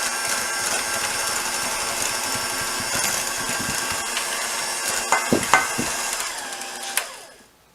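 Electric hand mixer running steadily at a raised speed, its beaters churning creamed butter and sugar in a bowl, with a steady motor whine. It winds down and stops near the end.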